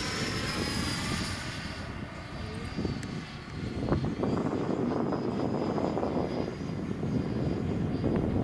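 Radio-controlled F-104 Starfighter model jet in flight, a high thin motor whine that dips slightly in pitch as it passes. About four seconds in, a louder, rough low rushing noise takes over.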